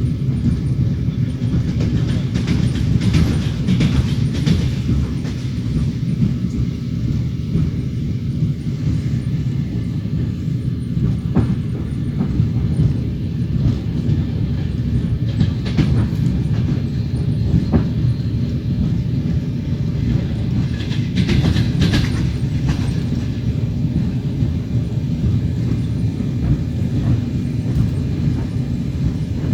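Wheels of a moving passenger train rumbling steadily on the rails, heard from inside the train, with a few sharper clacks over rail joints in the middle stretch.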